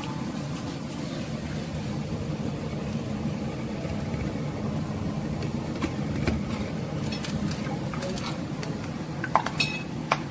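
Plantain slices frying in hot oil in a pan, over a steady low rumble. A few sharp clicks come near the end.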